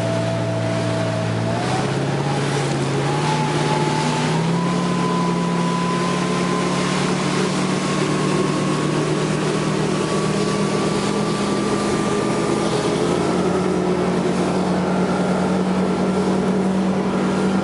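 1996 Correct Craft Ski Nautique's inboard engine running, its pitch stepping up about two, three and four and a half seconds in, then climbing slowly, with another step up about thirteen seconds in.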